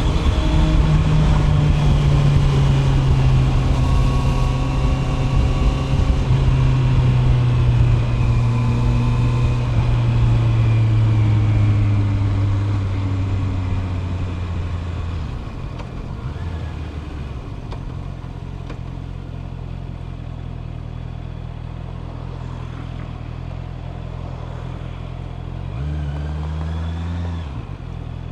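Honda CB650R's inline-four engine on the road: it runs steadily with its pitch slowly falling over about fifteen seconds, then goes quieter and lower, with a short rise in revs near the end.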